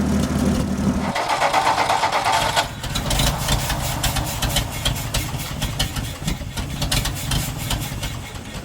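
1962 Ford F-350's engine idling, its steady running breaking off abruptly about a second in, then running unevenly with irregular knocks, which the owner puts down to air picked up in the fuel line.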